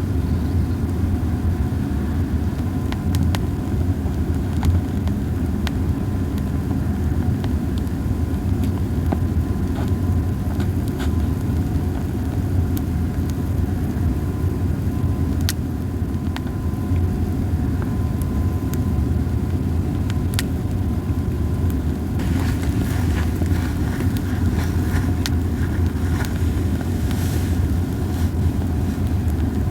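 Campfire of dried hinoki cypress cones burning, with sparse sharp crackles over a steady low rumble; the crackles come a few seconds apart, then bunch together for a few seconds near the end. The cones burn poorly, so the crackling is light.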